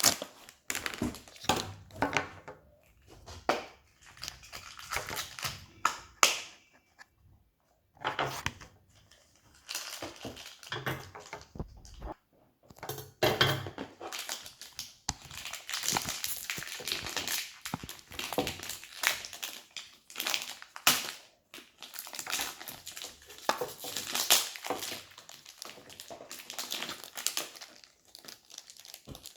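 Plastic toy packaging crinkling and rustling in the hands in irregular bursts with short pauses, as blind packs of small toys are handled and opened.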